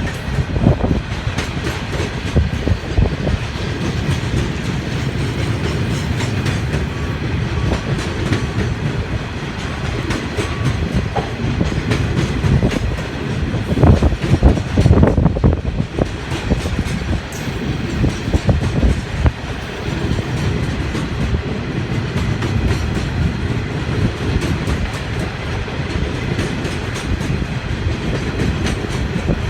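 Wagons of a limestone freight train rolling past, wheels clicking and clattering steadily over the rail joints, with a louder burst of clatter about halfway through.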